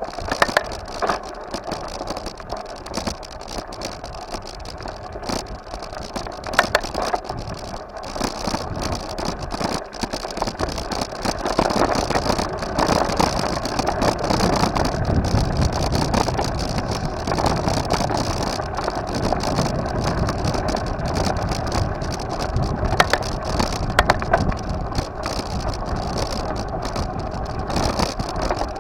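Steady riding noise from a moving bike, with scattered rattles and knocks, getting louder about twelve seconds in.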